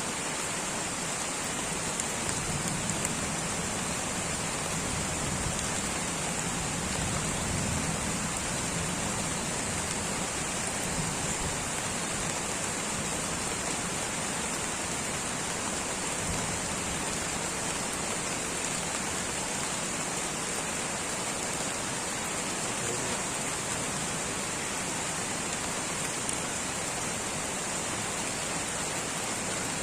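Steady light rain falling in a tropical rainforest, an even hiss of drops with no pauses.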